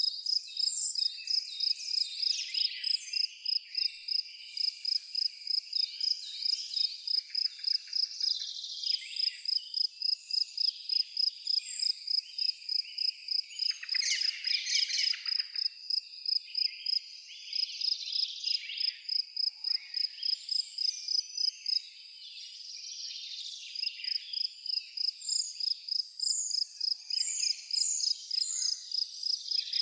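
A cricket chirping in an even, fast pulse that stops briefly a few times, with birds chirping and singing around it and a quick run of short high bird notes near the end.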